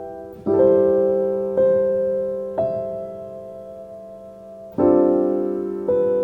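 Calm background piano music: slow chords and notes struck about once a second, each left to ring and fade.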